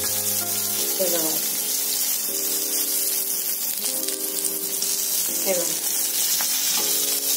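Stuffed green chillies sizzling steadily in a thin layer of oil on a hot tawa as they are turned, with soft background music of held chords underneath.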